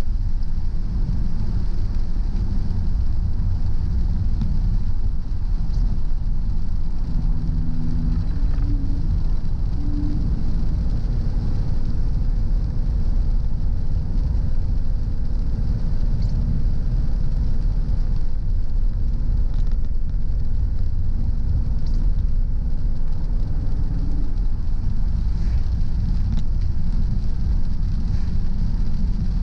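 Car driving along a road: a steady low rumble of engine and tyres with a faint hum, heard from inside the car, with the tyres hissing on the rain-wet road.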